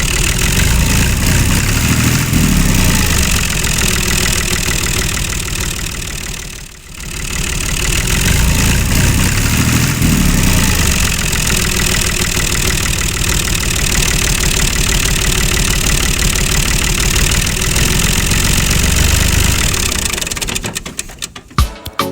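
An engine running steadily, dipping briefly about seven seconds in, then breaking off into a few sharp clicks near the end.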